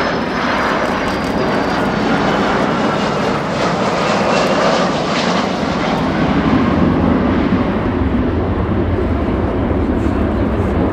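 Jet engines of a Boeing 757 airliner, Rolls-Royce RB211 turbofans, running loud. A high whine fades after about six seconds as a deeper rumble builds.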